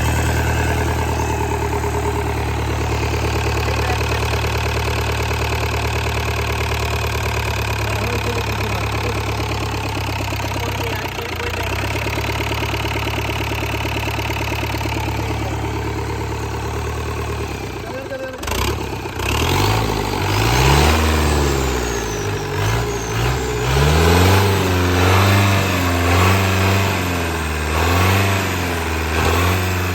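Tata 1109 truck's diesel engine idling steadily, then from about two-thirds of the way in revved up and down again and again. The owner takes it for a fully sound engine with no back pressure.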